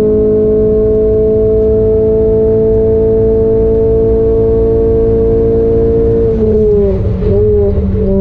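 Renault Clio 200 Cup's naturally aspirated 2.0-litre four-cylinder engine heard from inside the cabin, pulling hard at high revs with its pitch slowly rising. About six seconds in, it comes off the throttle for a corner: the pitch dips and wavers, then holds steady lower.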